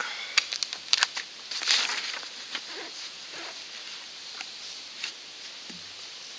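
Irregular rustling and crunching with several sharp clicks in the first half, over a steady high hiss, then only the hiss.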